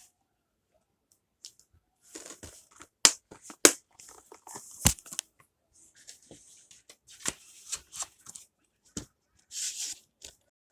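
Blu-ray case and its packaging being handled: after about two seconds of near silence, short crinkling rustles mixed with sharp plastic clicks and taps.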